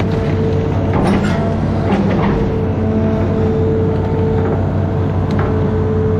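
Amphibious excavator's diesel engine running at a steady pitch, with a few short knocks about one, two and five seconds in.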